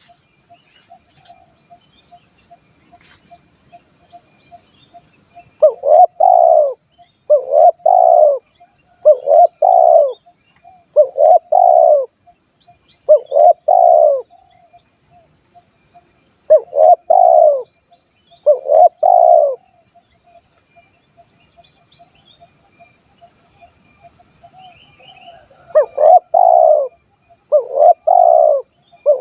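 Spotted dove (tekukur) cooing: a run of short, repeated coo phrases, each a quick double note, from about six seconds in until about twenty, then again near the end. A steady high-pitched ringing drone runs underneath.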